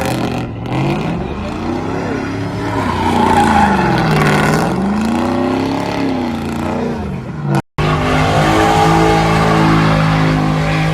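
Car engine revved hard, its pitch swooping up and down several times. After a brief cut about three-quarters of the way through, an engine holds a steady pitch.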